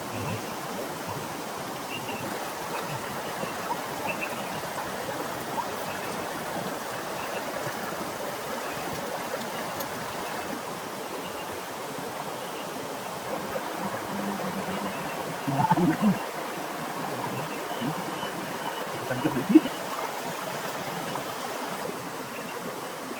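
Steady rain hissing without a break, with a few short louder sounds about two-thirds of the way through and again a little later.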